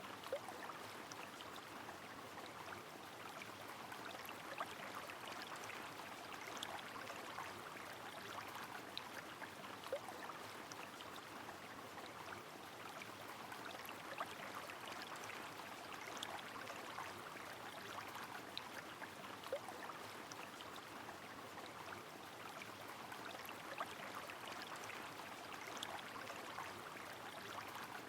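Steady rain with flowing river water: an even hiss of running water and falling rain, with scattered sharper drops ticking through it.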